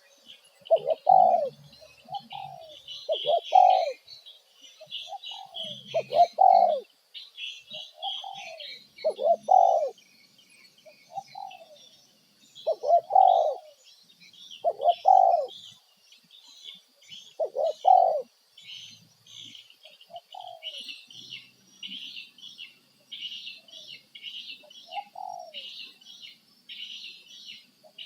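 Birds calling: a short, falling lower call repeated every one to two seconds, fewer and fainter after about eighteen seconds, over a dense chatter of high chirps and a steady high whine.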